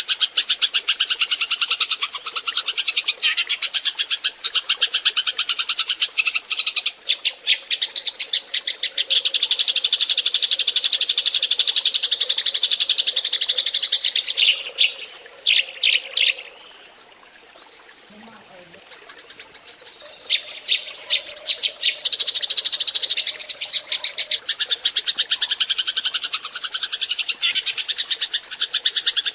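A flock of Eurasian tree sparrows chirping in a dense, rapid chatter. It breaks off briefly a little past the middle, then starts up again.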